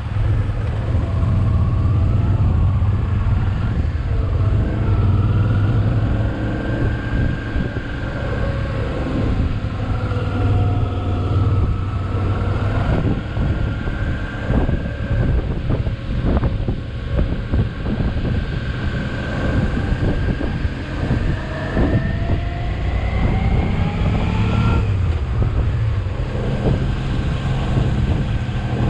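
Motorcycle engine running under way, with a heavy wind rumble on the microphone. The engine note wanders, then rises steadily over several seconds and drops sharply about four seconds before the end.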